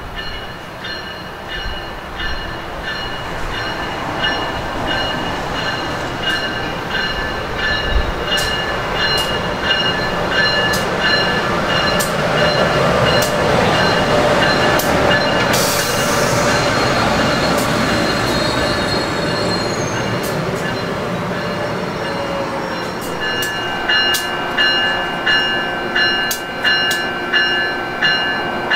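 An Amtrak AEM-7 electric locomotive and its passenger cars pull into the station and slow to a stop. The rumble of the train builds as the locomotive comes alongside and then eases, with a steady high brake and wheel squeal throughout and a brief hiss about halfway. Near the end, as the train stops, a regular pulsing sound runs at roughly one and a half beats a second.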